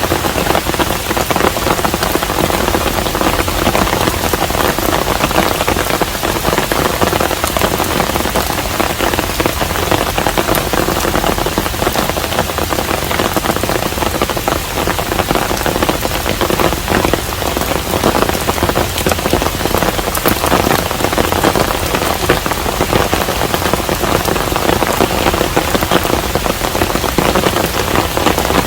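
Steady rain falling on a hanok, a traditional Korean house: a dense, even patter of drops that holds without a break.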